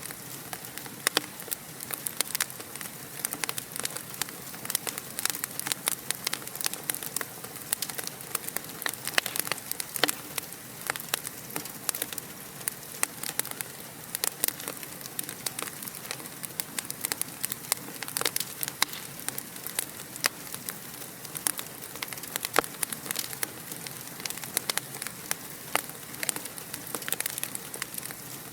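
Fire in a fireplace crackling continuously: a dense, irregular run of small sharp pops and snaps over a soft steady hiss.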